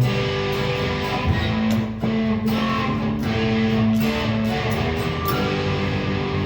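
Guitar-led instrumental music with held chords and notes, the closing bars of a ballad after the vocal has ended.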